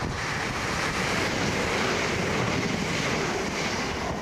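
Southern Class 377 Electrostar electric multiple unit passing through the station at speed without stopping: a steady rush of wheel and air noise that eases off near the end as the train goes by.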